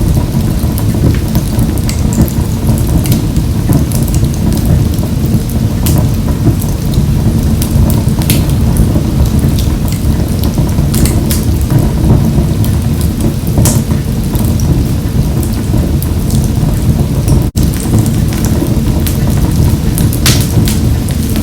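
Wood fire burning in a wood-burning stove: a steady low roar of flames with frequent sharp crackles and pops, broken by a momentary drop-out about two-thirds of the way through.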